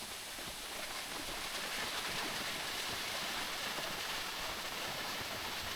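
Steady rushing of water falling at a waterfall, growing a little louder about a second in.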